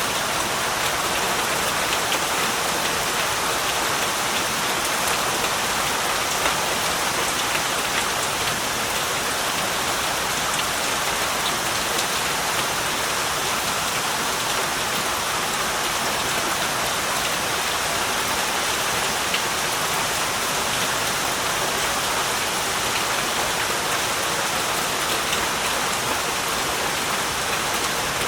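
Heavy rain falling steadily: a dense, even hiss of drops with faint scattered pattering.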